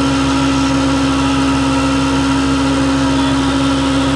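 Massey Ferguson 399 tractor running at a steady speed under load, an even engine note with a constant whine over it.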